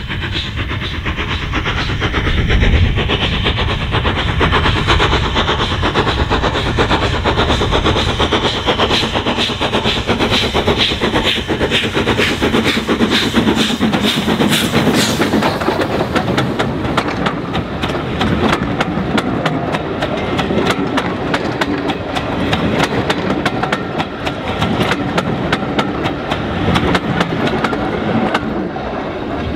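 Steam-hauled train behind ex-Somerset & Dorset 7F 2-8-0 No. 53809 on the move. There is a continuous rumble of the train running on the rails, with a rapid stream of wheel clicks that grows denser about halfway through.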